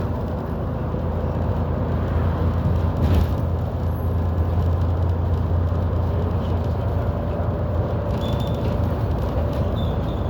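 Diesel bus engine running under way, heard from inside the passenger saloon: a steady low drone with a faint whine above it, the whine that earns this bus its 'Hoover' nickname. There is a brief knock about three seconds in.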